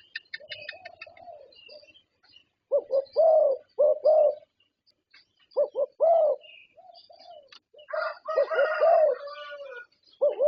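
Perkutut (zebra dove) cooing in phrases of quick, rounded coos repeated several times, the song that perkutut contests are judged on. Quick high chirps, likely from other small birds, run through the first second or so.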